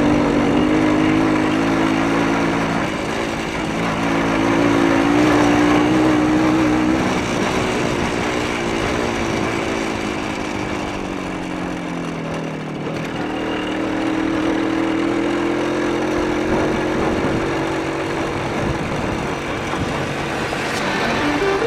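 Minsk motorcycle's single-cylinder two-stroke engine running under way. Its pitch holds steady, sinks gradually to just past halfway, then picks up again and holds.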